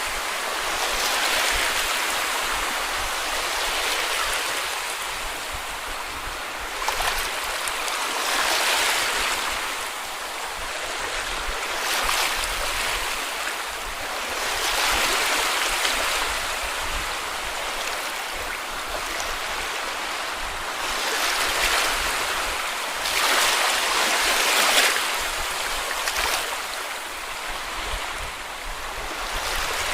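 Small sea waves breaking and washing up a beach, a continuous rush of surf that swells about every three to four seconds.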